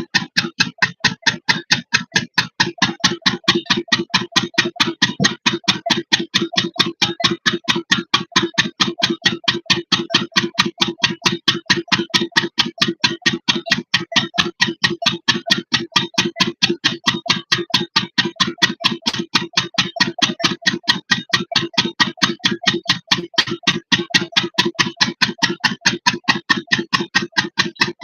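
8 hp single-cylinder diesel engine driving a water pump, running steadily with an even put-put beat of about three to four exhaust strokes a second.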